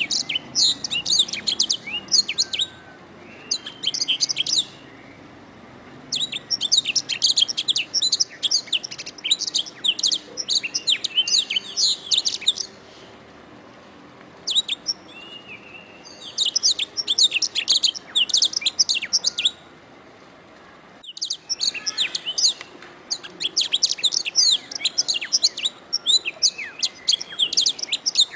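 Domestic canary singing in long phrases of rapid, high chirps and rolling trills, broken by short pauses. There is an abrupt cut in the recording about three-quarters of the way through.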